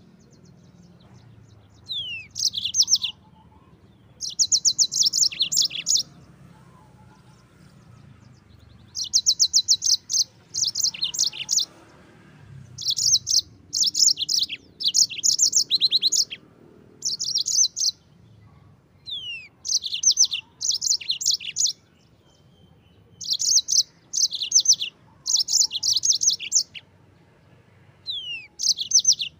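Yellow-fronted canary (Mozambique canary) singing: bouts of rapid, high trilled notes lasting one to two seconds, separated by short pauses, some phrases opening with a quick falling whistle.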